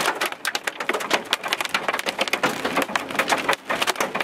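Rain striking a vehicle's roof and windshield as dense, irregular ticks during a thunderstorm.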